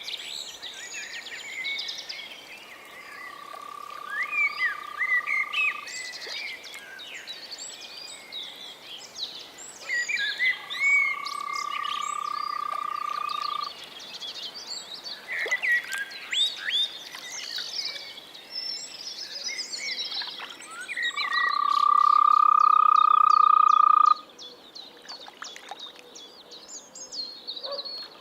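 A frog giving three long, even trilling calls of about three seconds each, the last the loudest, over a busy background of short bird-like chirps.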